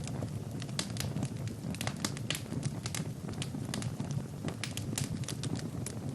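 Wood fire burning in a fireplace: logs crackling and popping in quick irregular snaps over a steady low rumble of the flames.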